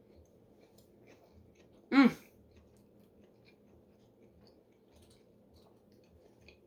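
Faint chewing and small mouth clicks while eating, with one short voiced sound falling in pitch about two seconds in.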